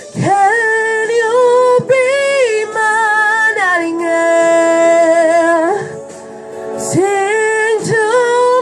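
A woman singing long held notes that slide and step between pitches, with no clear words, over steady backing music. The voice eases off briefly about six seconds in and then comes back.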